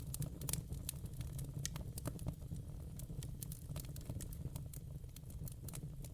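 Wood fire burning in a fireplace: many quick, irregular crackles and pops over a steady low rumble of the flames.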